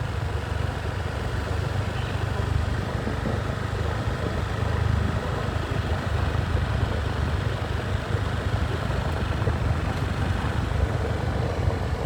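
Motorcycle riding along a road: a steady, even low rumble of engine and road noise.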